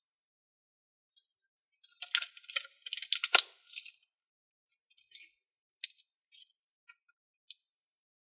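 Thinking putty being stretched and squeezed by hand, making a quick run of sticky crackles and clicks, then a few single pops.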